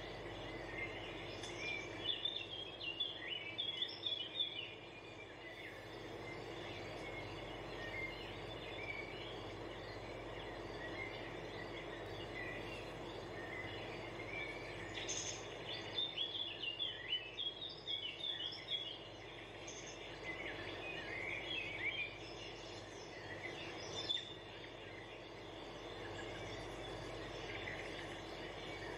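Birds chirping in scattered clusters over a steady background hum.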